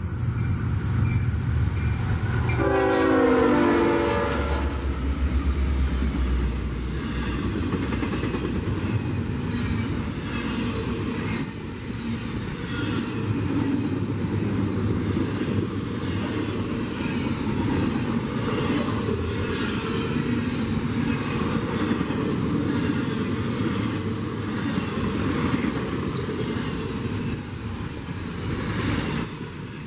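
Double-stack intermodal freight train rolling past: a train horn sounds briefly about three seconds in, its pitch falling, then the steady rumble and clickety-clack of the container cars' wheels on the rails.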